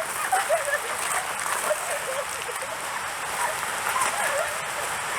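Mountain stream water rushing and babbling over rocks: a steady hiss with small gurgling tones running through it.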